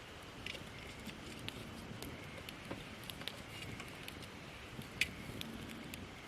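Wood campfire of gathered branches crackling: irregular sharp pops and snaps over a soft steady hiss, with one louder snap about five seconds in.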